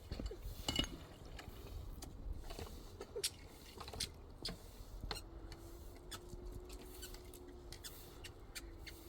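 Irregular light clicks and taps, some close together. About halfway through, a steady low hum starts and keeps going.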